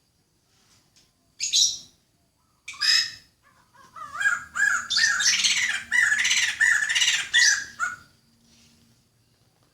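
A bird calling: two short, noisy calls about a second apart, then a fast, loud chattering series of repeated notes lasting about four seconds.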